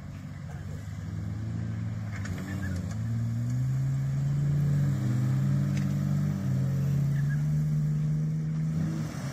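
Four-wheel-drive ute's engine revving under load in soft sand, its pitch climbing in steps, dropping once about six seconds in, then rising again, and getting louder as it works.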